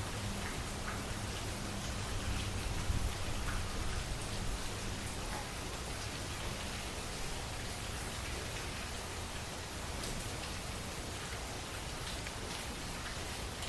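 Steady rain falling, with individual drops ticking on a surface. A low steady hum fades out about halfway through.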